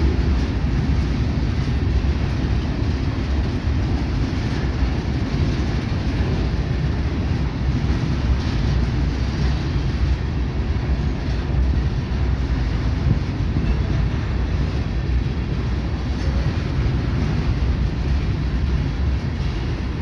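Kansas City Southern freight train passing, with a steady rumble of railcars rolling on the rails.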